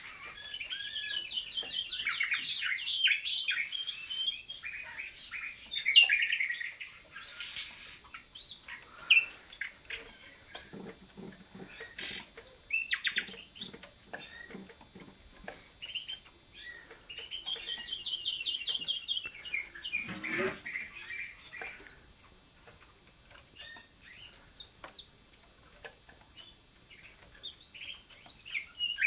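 Canaries and a young nightingale singing: fast rolling trills and chirps, with the longest trilled phrases at the start and again past the middle. A few soft low knocks come between the phrases.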